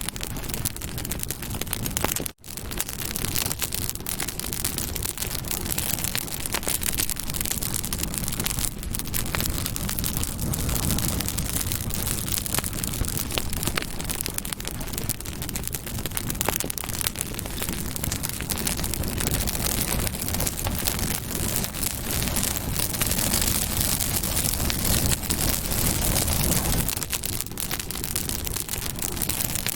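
Campfire crackling and popping steadily, a dense run of sharp snaps over a constant rushing hiss of burning wood. The sound cuts out for a split second about two seconds in, then carries on as before.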